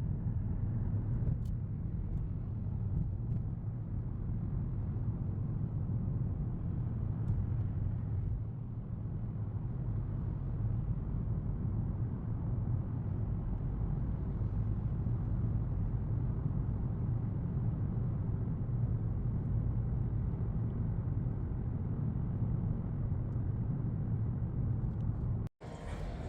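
Steady road and engine rumble inside a moving car's cabin. It cuts off abruptly near the end.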